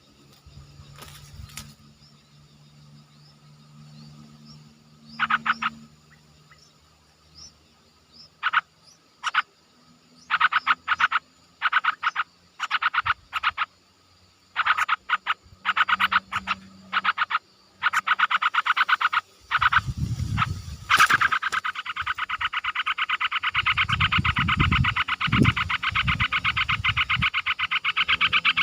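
An animal calling in rapid, buzzing pulsed trills. They come in short bursts, about one a second, from about five seconds in, then merge into one continuous trill from about eighteen seconds. Low rumbles come in around twenty seconds and again from about twenty-three to twenty-six seconds.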